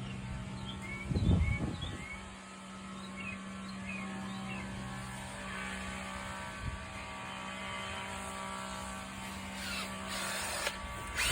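A steady low, engine-like drone, with a few short high chirps in the first few seconds and a loud low thump about a second in; a hiss rises near the end.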